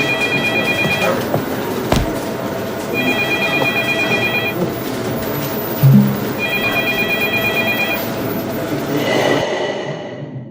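An electronic ringing tone, like a phone alarm, sounds in three bursts of rapid beeps about three and a half seconds apart over a busy background. It fades out near the end.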